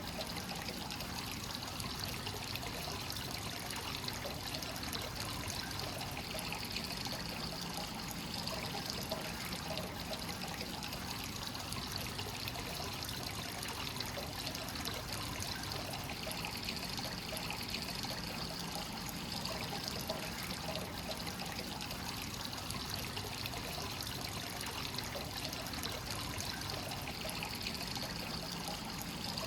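Hot spring water flowing freely into a bath: a steady trickling and splashing pour that goes on without a break.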